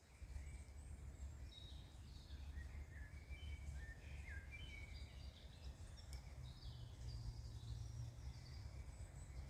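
Small birds chirping and twittering in many short, high calls, over a faint, steady low rumble.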